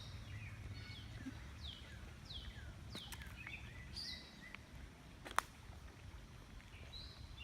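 Birds chirping, a string of short notes each sliding down in pitch, over a steady low rumble. A single sharp click about five seconds in.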